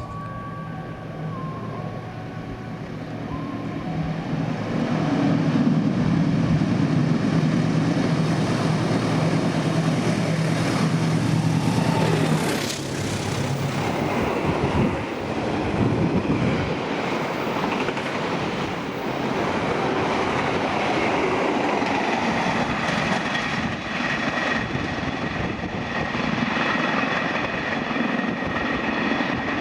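Freight train passing: the locomotive's engine drones loudly for about the first twelve seconds, then the wagons roll by with a rushing, rumbling noise. A high steady ringing tone joins near the end.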